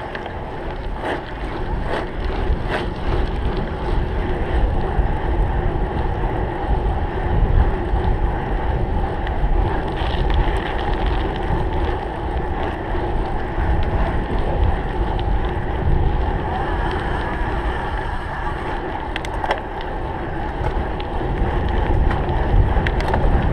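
Wind rushing over the microphone and tyre rumble from a cyclocross bike being raced over rough ground, with occasional short knocks and rattles from the bike.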